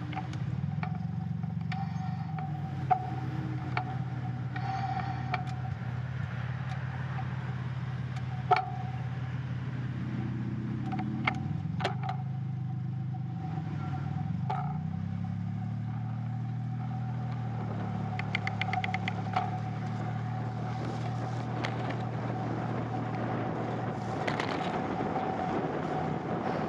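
A steady low engine hum that shifts slightly in pitch now and then, with a few sharp clicks.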